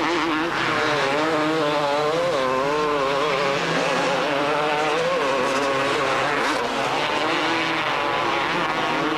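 250cc two-stroke motocross bike engines racing, their pitch rising and falling constantly with the throttle.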